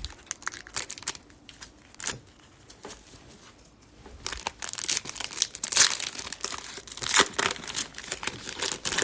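Trading-card pack wrapper being torn and crinkled open by hand: the pack is hard to open. There are a few scattered crackles, then a quieter pause, then dense, loud crinkling from about four seconds in.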